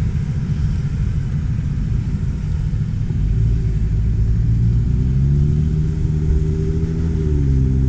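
Jeep Wrangler JL Rubicon engine running at low speed with a deep rumble, its note climbing about two-thirds of the way in, holding, then settling lower near the end.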